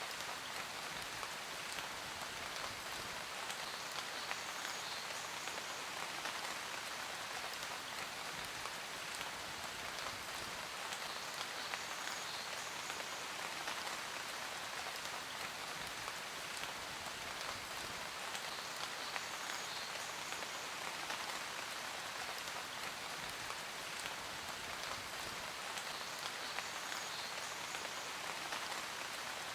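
Steady heavy rain falling and pattering on a surface, a dense even hiss of many small drop ticks.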